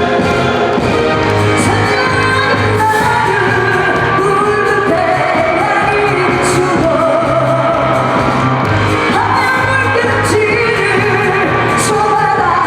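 A singer performing a pop song over band accompaniment, with long held and gliding sung notes.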